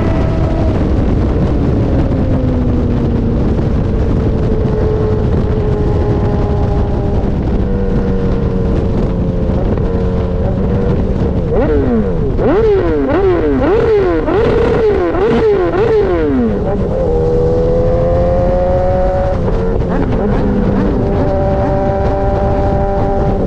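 BMW S1000RR's inline-four engine running through an Austin Racing GP1R full Inconel exhaust, its revs drifting slowly at first. About halfway through it revs sharply up and down several times in quick succession, then settles back to a steady note.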